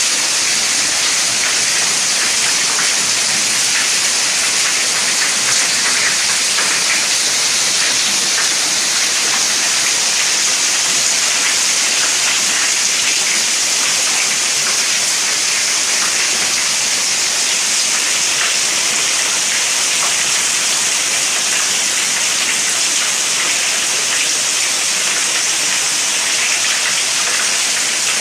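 Steady rain: an even hiss with the fine patter of many drops, holding at the same level throughout.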